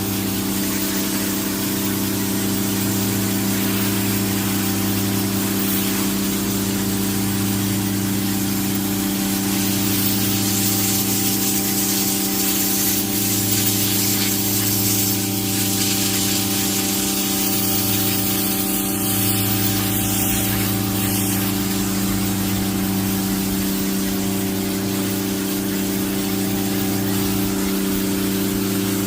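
Pressure washer running steadily, its motor or engine holding one even pitch, with the hiss of the water jet spraying onto the asphalt pavement.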